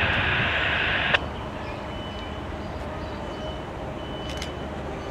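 Distant rumble of a CSX freight train's GE diesel locomotives approaching. A loud hiss covers it at first and cuts off suddenly with a click about a second in.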